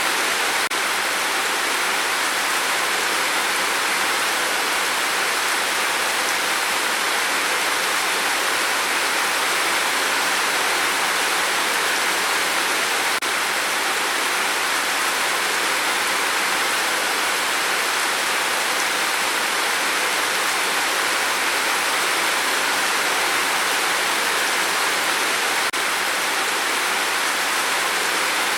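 Rain falling steadily on a tin roof: a dense, even hiss of drops that does not let up.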